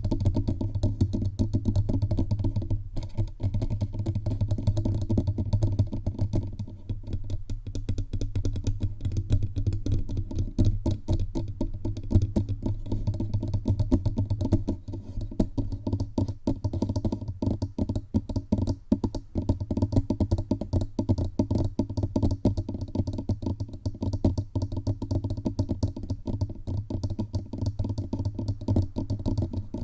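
Fingertips tapping rapidly all over a bare microphone, its body as well as its head, in a dense, uneven patter of small low thumps and clicks.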